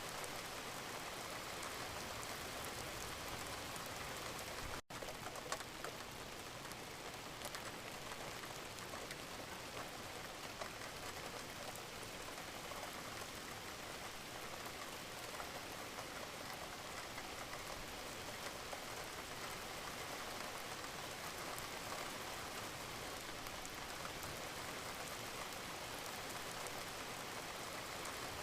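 Steady, even rain falling, which cuts out for an instant about five seconds in and then carries on unchanged.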